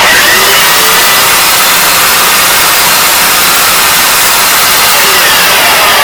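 A 2020 Bissell ProHeat carpet cleaner switched on right at the start, its motor running loudly and steadily with a rushing whine.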